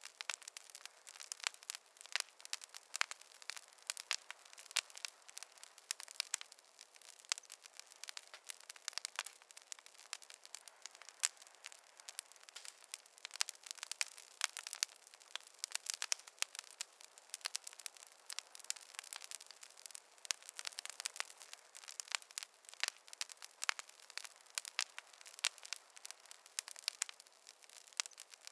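Wood fire crackling: a dense, irregular run of small sharp pops and snaps from burning logs.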